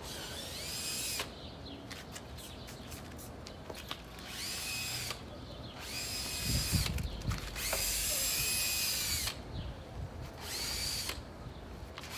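Small electric motor run in short bursts, about five times, each burst spinning up, holding for a second or so and winding down.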